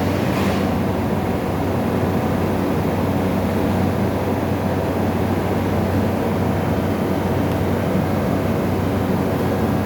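A 350-watt refrigerator compressor, mechanically jammed, powered up through its start relay and giving off a steady electrical hum. There is a brief hiss about half a second in.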